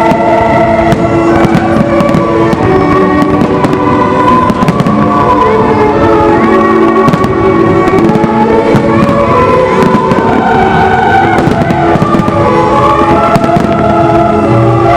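Fireworks going off in a steady series of bangs and crackles, over loud music with long held notes.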